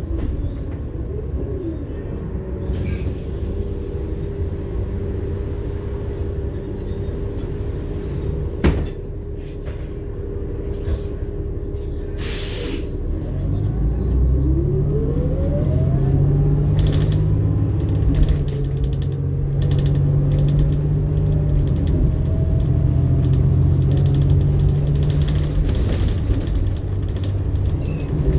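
New Flyer XN60 articulated bus with a Cummins-Westport ISL-G natural-gas engine and Allison automatic transmission, running with a steady low rumble. There is a sharp click partway through and a short hiss of air about twelve seconds in. The engine then grows louder and rises in pitch as the bus pulls away and accelerates.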